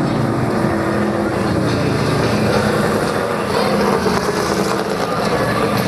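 Stock car and truck racing engines running steadily at reduced speed as the field circles under a caution flag.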